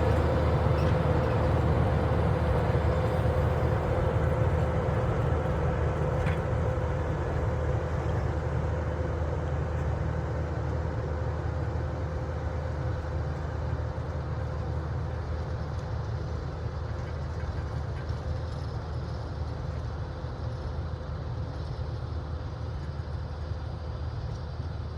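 Tractor engine running steadily under a continuous low rumble with a steady hum, slowly growing quieter over the stretch.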